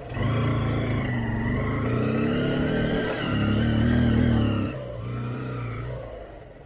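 Motorcycle engine revving under load on an off-road track, its pitch wavering up and down; it eases off about two-thirds of the way through and fades away.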